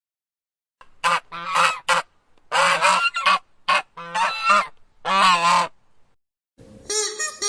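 Waterfowl honking: a run of about ten short, harsh calls in quick groups, after a second of silence.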